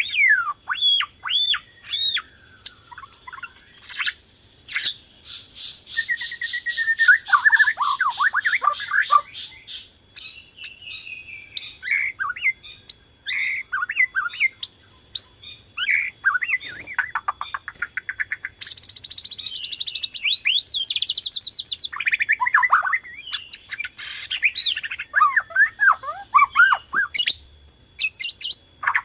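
Bornean white-rumped shama (murai batu) in full, continuous song: a loud, varied run of sliding whistled phrases with quick trills of repeated notes and some harsher chattering notes.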